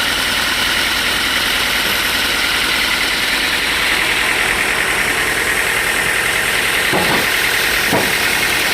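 Sawmill machinery running steadily with a constant mechanical noise, with three short knocks about a second apart near the end.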